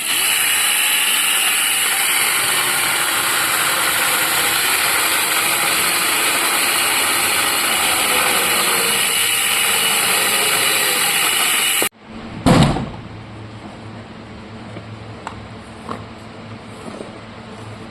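Small chainsaw running steadily at speed, a dense high-pitched mechanical whine that cuts off abruptly about twelve seconds in. A single heavy thud follows shortly after, with a few light clicks.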